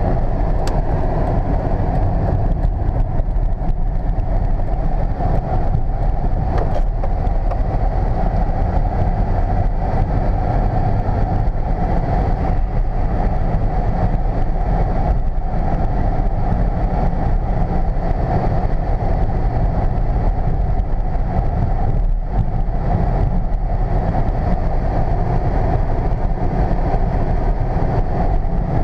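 Steady in-cabin noise of a 1999 Volvo S80 T6, its twin-turbo straight-six and tyres giving a constant low rumble while driving, with the climate-control fan blowing.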